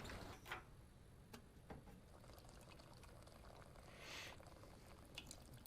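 Near silence: faint room tone with a few soft clicks and a brief soft hiss about four seconds in.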